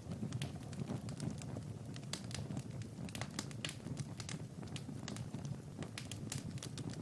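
Wood fire crackling: many irregular sharp pops and snaps over a low, steady rushing sound.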